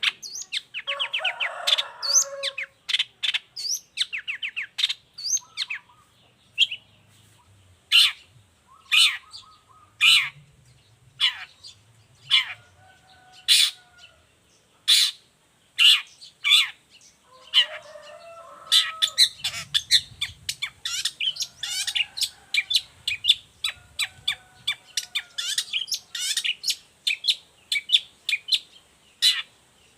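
Long-tailed shrike (cendet) in full song: a fast, irregular run of short, sharp, high chips and trills, with some lower squeaky notes mixed in.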